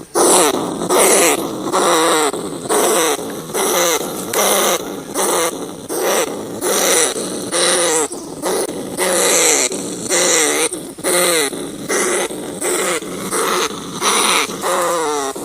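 Rats squealing: short, harsh calls with a hissy edge, repeated over and over at a little more than one a second.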